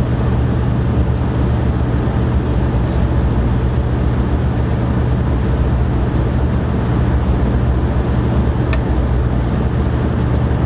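Steady low mechanical drone, like a running engine or machine, with one faint short tick about nine seconds in.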